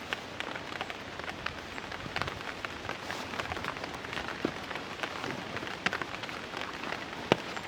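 Steady rain falling, with many sharp single drop hits scattered through it and one louder hit shortly before the end.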